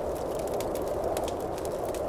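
Wood campfire burning, with a steady low rush of flame and frequent small sharp crackles and pops.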